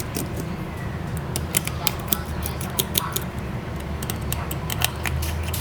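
Irregular sharp clicks and taps of small hand tools working on a smartphone, over a steady low hum.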